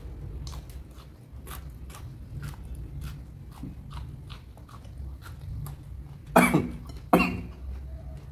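Close-up chewing of crunchy raw food, with short crunches about twice a second. Near the end come two much louder sharp sounds a little under a second apart.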